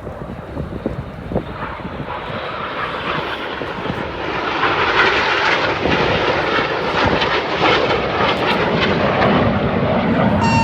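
BAE Hawk jet trainers flying past with their engines running, a steady jet roar that grows louder from about four seconds in.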